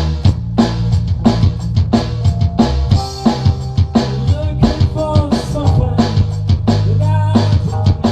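A band playing live: a drum kit keeping a steady beat of kick, snare and rimshots over sustained bass notes, with guitar lines on top.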